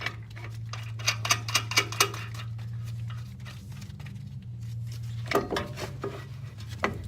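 Metal clinks and rattles of hand tools and bolts as the truck's brake caliper is unbolted: a quick run of clicks in the first two seconds and a few more near the end, over a steady low hum.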